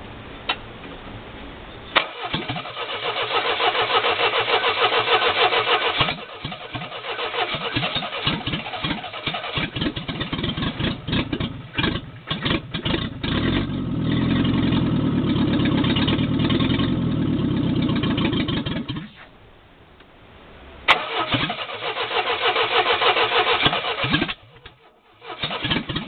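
A 1970 Renault R16's rebuilt four-cylinder engine, with no exhaust fitted, is cranked on the starter, catches and fires unevenly, then runs loudly for several seconds before dying. After a short pause it is cranked again and sputters. This is the engine's first startup after its rebuild.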